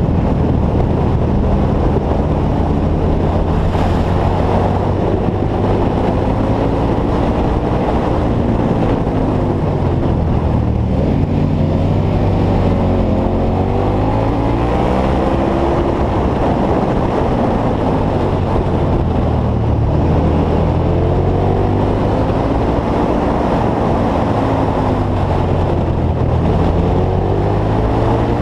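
KTM V-twin motorcycle engine at road speed, its revs rising and falling again and again through the bends, with wind rushing over the microphone.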